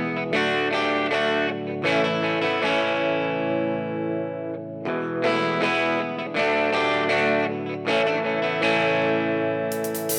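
Music: guitar chords, played through effects, struck every second or two and left to ring out and fade.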